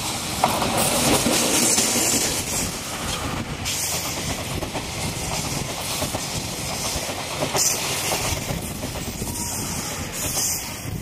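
JNR Class EF64 electric locomotive and its passenger coaches passing at close range: a steady rumble and hiss of wheels on rail, with the clickety-clack of wheels over rail joints, loudest in the first few seconds as the locomotive goes by.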